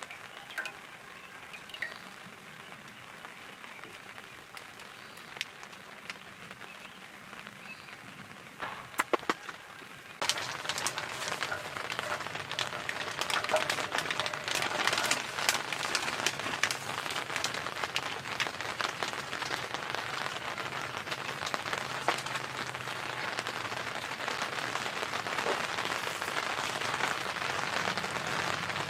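Rain falling and pattering on a surface, with many fine drop clicks. About ten seconds in it turns abruptly much louder and denser.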